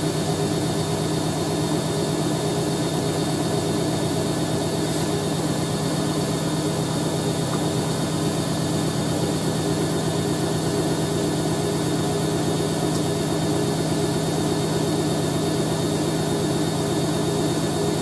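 Hoover A3060 Electronic 1100 front-loading washing machine spinning at speed in an interim spin, a steady, even hum with no change in pitch or level. The drum runs quite smooth on its newly fitted suspension.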